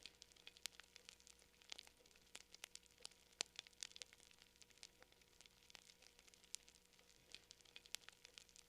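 Campfire crackling: faint, irregular, sharp pops and snaps of burning wood, several a second.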